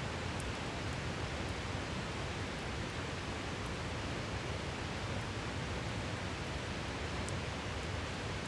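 Steady rush of a mountain river, with a few faint, sparse crackles from a wood campfire.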